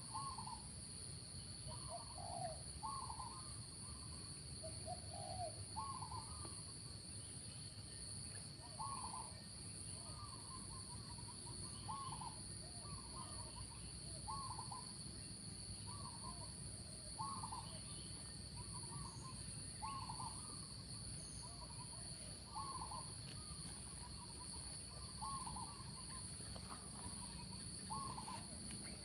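Spotted doves cooing, short coo phrases repeating every second or two, at more than one pitch. A steady high-pitched insect drone runs underneath.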